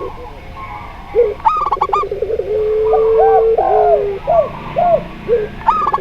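Zebra doves, spotted doves and a puter pelung ringneck dove cooing together. A quick high staccato phrase comes about a second and a half in and again near the end, one long steady low coo runs through the middle, and several short arched coos follow it.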